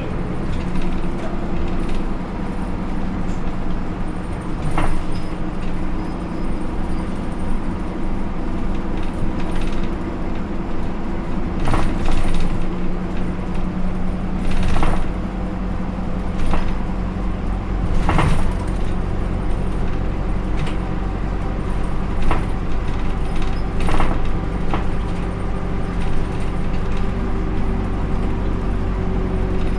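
A Hino Rainbow II bus's four-cylinder 4HK1-TCH turbo diesel engine running steadily, heard from inside the cabin. Sharp rattles and clacks come every few seconds, the loudest about 12, 15 and 18 seconds in.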